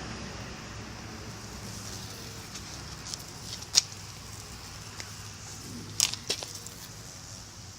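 Steady outdoor background hiss with a few short, sharp crackling ticks, the loudest about halfway through and a close pair about three-quarters in.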